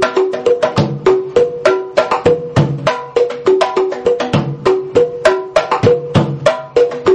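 Batá drums, the double-headed Afro-Cuban hourglass drums, played by hand in a fast, repeating rhythm. Ringing open tones at two different pitches alternate with sharp high strokes and a deeper low tone.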